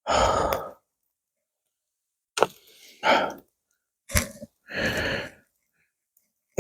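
A person with hot food in the mouth, huffing out short breaths to cool it, with a couple of sharp mouth clicks in between.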